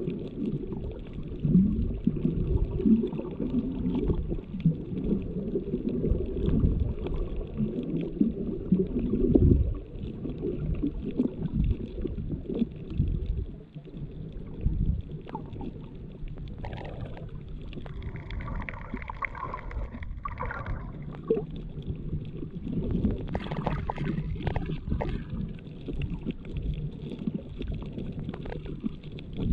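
Muffled underwater sound from a GoPro Hero7's own microphone, recorded without a waterproof case: a low, uneven churning rumble of water moving against the camera, loudest in the first ten seconds. From about 17 to 21 seconds in, a higher humming sound joins it.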